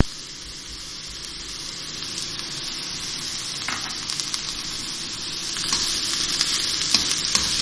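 Carrots, cabbage, capsicum and spring onion sizzling in oil in a non-stick pan as shredded chicken is added. The sizzle is steady and grows louder about three-quarters of the way through, when a wooden spatula starts stirring, with a few light clicks.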